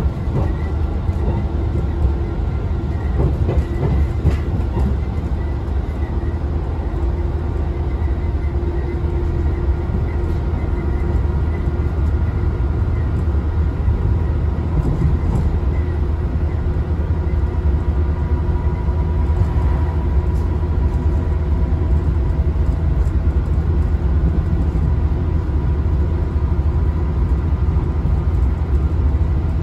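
Inside a Class 166 Turbo diesel multiple unit running at line speed: a steady low rumble from the wheels on the track and the underfloor turbo-diesel engine, with faint, thin steady whining tones above it.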